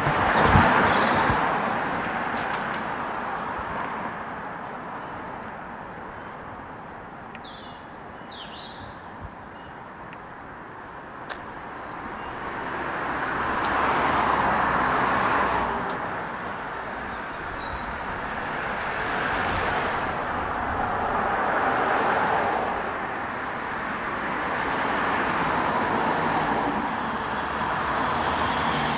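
Road traffic: cars passing one after another, each swelling and fading, the loudest pass about fourteen seconds in. A few bird chirps sound briefly around eight seconds in.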